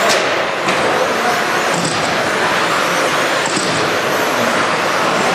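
A pack of radio-controlled stadium trucks racing around the track: a steady blend of motor whine and tyre noise. There is one sharp knock at the very start and another just under a second in.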